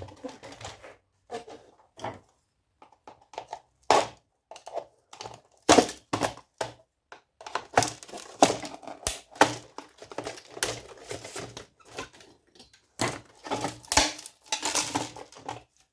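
Hand dismantling of computer hardware: irregular clicks, taps and rattling of screws, brass standoffs and a circuit board against a metal chassis, with denser clattering about halfway through and again near the end.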